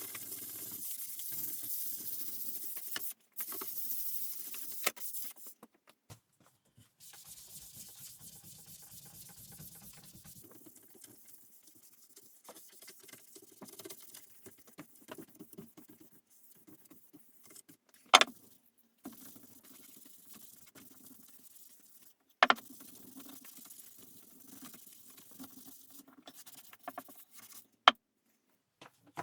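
Hand work on a wooden piece of furniture: a hissing, rustling rub at first, then quieter scratching and rubbing, with two sharp knocks about 18 and 22 seconds in and a few lighter clicks.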